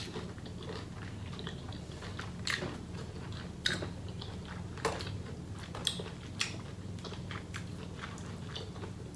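Close-miked chewing and mouth smacking while eating a seafood boil, with sharp clicks at irregular intervals over a steady low hum.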